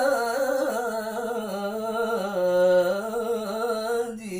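A man singing one long melismatic note of an Arabic syair, the voice held on a vowel with its pitch wavering up and down, softening near the end.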